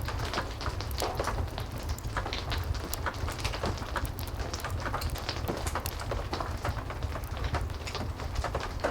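Heavy rain falling steadily, mixed with a wood fire crackling in a fireplace: many small sharp pops over a low, even rumble.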